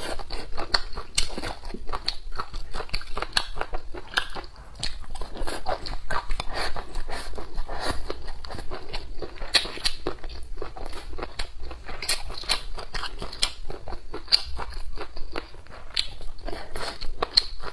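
A person chewing and biting mouthfuls of stir-fried dried long beans with cured pork, a steady, irregular run of many small clicks and smacks of the mouth and food.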